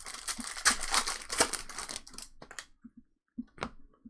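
Trading-card pack wrapper crinkling and tearing for about two seconds, then a few light clicks near the end.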